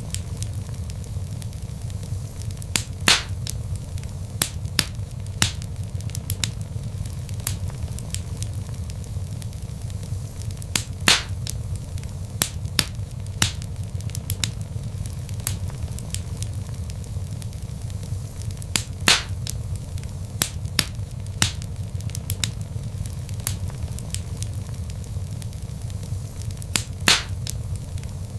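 Log fire crackling in a fireplace: a steady low rumble of burning wood with scattered sharp pops and snaps, a few louder ones spaced several seconds apart.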